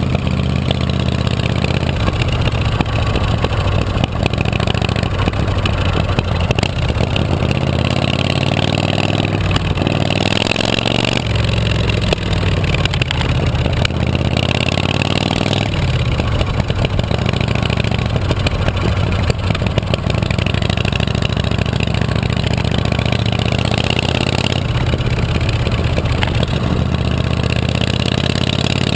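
Chopper motorcycle engine running steadily. Its revs climb and drop back sharply twice, around a third and halfway through, with another change in pitch near the end.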